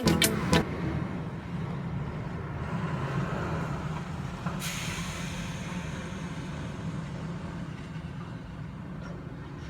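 Diesel engine of a Volvo demolition excavator running steadily with a low drone. About halfway through a hissing rush starts suddenly and slowly fades.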